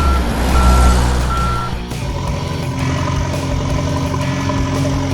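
A truck's reversing alarm beeping steadily, three evenly spaced beeps about a second apart over a deep rumble. The beeping stops after about two seconds and a steady vehicle hum carries on.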